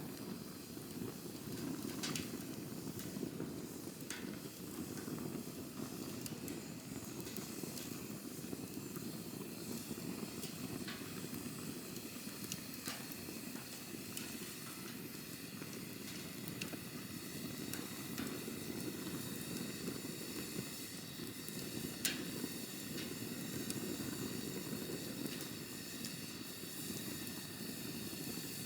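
Campfire burning: a steady low rush of flames with scattered crackles and pops, the sharpest about 22 seconds in.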